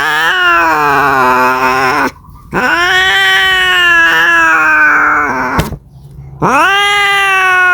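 Domestic cat yowling in long, drawn-out caterwauls, the mating call of a cat seeking a mate. Three calls, each rising at the start and then sliding slowly down in pitch, with short breaks about two seconds in and near six seconds in.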